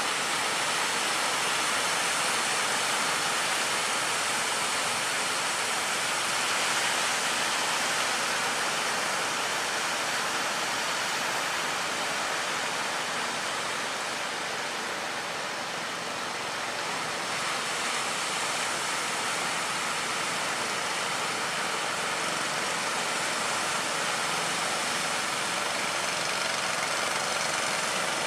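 Steady rush of surf and waves, with a fishing boat's engine running under it.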